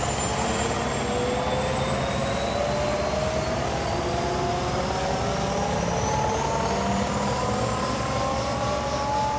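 Helicopter running: a steady fast rotor beat under engine noise, with a turbine whine whose tones slowly rise in pitch.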